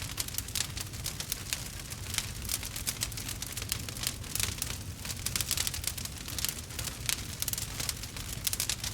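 Wood fire burning, with a dense stream of irregular crackles and pops over a steady low rumble.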